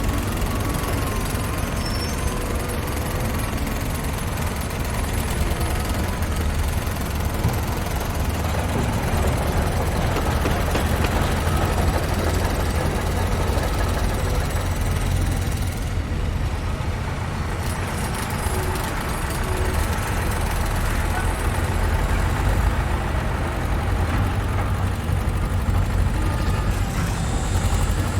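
Construction-site ambience: heavy trucks and machinery running steadily, a continuous low engine drone with a dense mechanical clatter over it.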